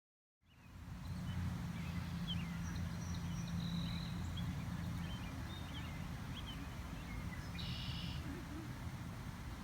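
Outdoor background with a low steady hum and scattered faint bird chirps, and a short buzzy animal call a little before the end.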